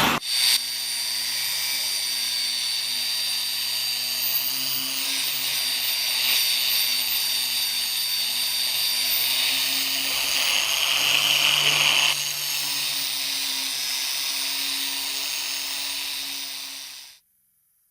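A small high-speed electric power tool running steadily against metal while cleaning and polishing the meat grinder's parts. It turns harsher for a couple of seconds past the middle and cuts off suddenly near the end.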